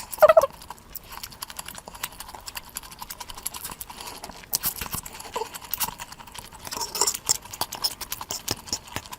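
Close-miked eating sounds: a fast, dense run of wet mouth clicks and smacks from chewing big bites of food, with a few brief pitched mouth sounds.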